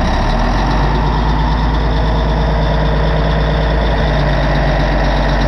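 Caterpillar D8N bulldozer's six-cylinder diesel engine idling steadily, freshly started from cold.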